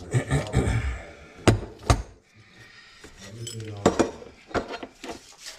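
Metal garbage disposal mounting hardware clinking and knocking as it is handled at the sink, with about four sharp clinks.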